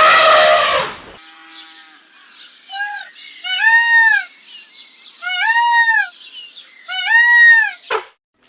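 An elephant trumpets loudly for about the first second. Then a peafowl calls: one short note, then three loud two-part calls, each a short note followed by a longer note that rises and falls.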